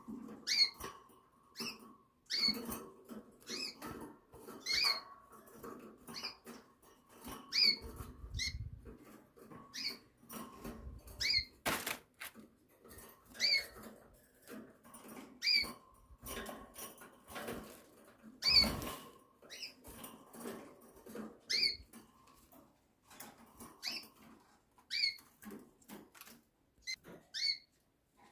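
Pet canaries giving short single chirps, one every second or two, with scattered small clicks and rustles between them.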